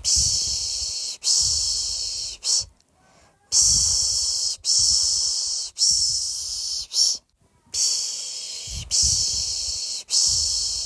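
A person's voice shushing 'pışşş, pışşş' to soothe a baby to sleep: three long shushes of about a second each and a short one, then a brief pause, repeating.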